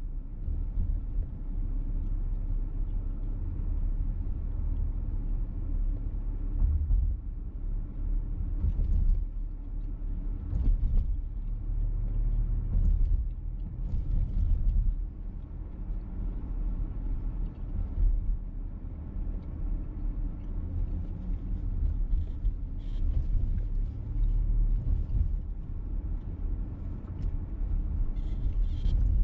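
Inside a VW T-Roc petrol car on the move: steady low engine and road rumble.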